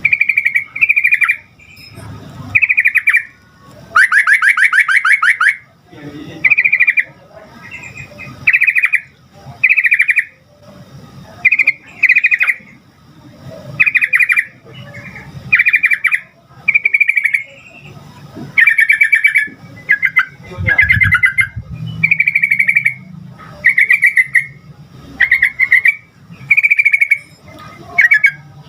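Yellow-vented bulbul (trucukan) singing. It gives a steady run of short, bubbly, chattering phrases every second or two, with one longer rapid trill about four seconds in.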